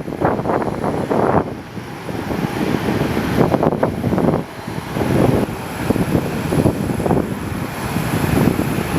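Aircraft engine noise, mixed with strong gusty wind buffeting the microphone in uneven bursts.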